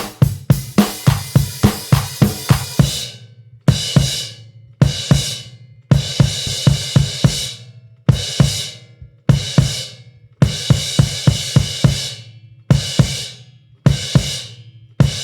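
Drum kit playing a rock-style pattern: quick snare and bass drum hits with crashing cymbals, in short bursts that stop and start again every second or so.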